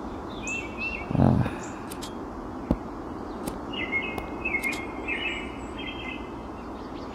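Birds chirping in short repeated phrases over a steady hiss, most busily a little past the middle, with a few light clicks and a brief low vocal sound about a second in.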